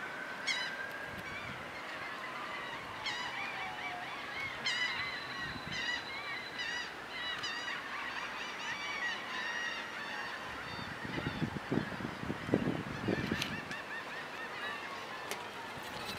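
Birds calling: many short, repeated, rising-and-falling calls mixed with long gliding whistles. A cluster of low knocks comes about two-thirds of the way through.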